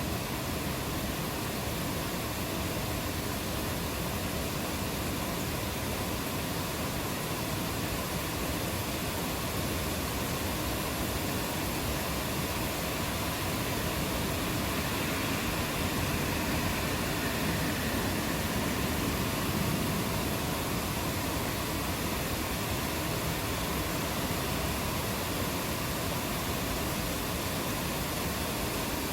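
Steady rainfall: an even, continuous hiss of rain that swells slightly a little past the middle.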